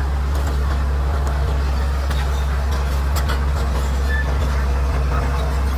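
Bulldozer's diesel engine running steadily under load, with a few faint cracks over it.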